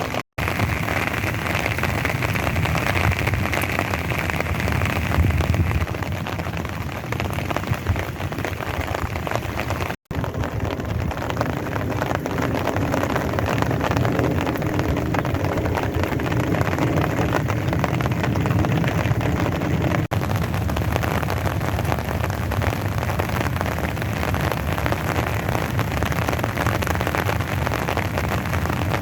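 Steady heavy rain falling and splashing on hard ground, an even hiss broken by momentary dropouts about ten and twenty seconds in.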